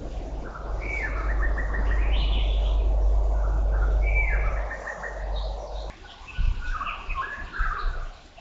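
Several birds chirping and trilling in short repeated phrases over a steady low rumble. The rumble cuts off about six seconds in, leaving the bird calls on their own.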